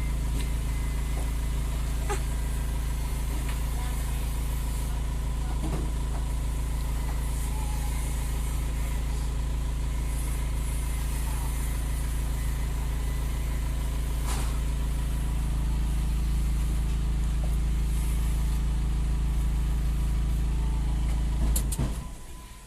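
A large engine running steadily at idle, a deep, even drone that breaks off abruptly near the end, with a few faint knocks.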